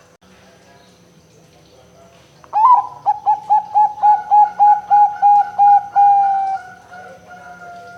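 Zebra dove (perkutut) cooing: a sharp opening note about two and a half seconds in, then a quick even run of about a dozen short coos, ending in one longer drawn-out note, with fainter coos after it.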